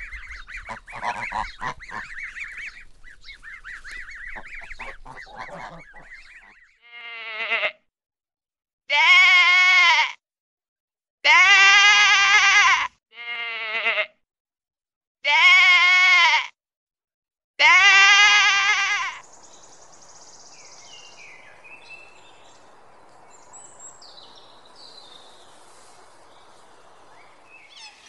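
Mallard ducklings peeping rapidly for the first few seconds. Then comes a run of six loud, drawn-out bleats from mouflon wild sheep, each about a second long with silent gaps between them. A low steady hiss with faint chirps follows.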